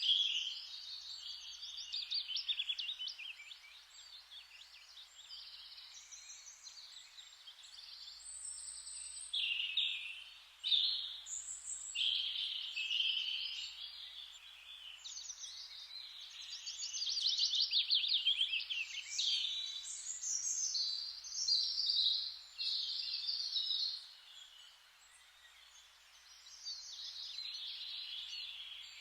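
Several birds singing at once in a forest, overlapping chirps and fast trills, over a faint steady hiss. The singing thins out briefly a little before the end.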